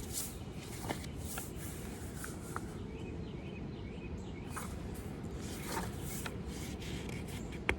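Steady low background noise with a few faint, short rustles and clicks scattered through it.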